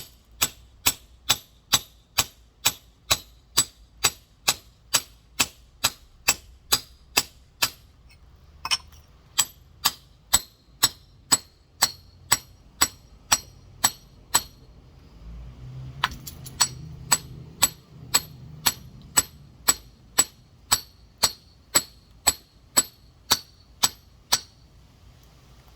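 Rock hammer tapping a large geode in steady, sharp strikes, about two to three a second, each with a short metallic ring; the tapping stops briefly twice. These are the repeated hits that score and shear a crack through the geode's hard spot so it splits open.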